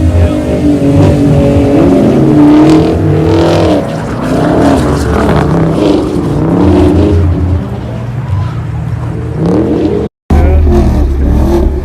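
Car engines revving hard at a car meet, their pitch rising and falling again and again over a heavy low rumble. The sound cuts out briefly about ten seconds in.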